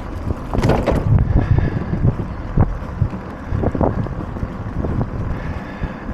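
Wind rushing over the microphone of a moving bicycle: a steady low rumble, broken by irregular knocks and thumps.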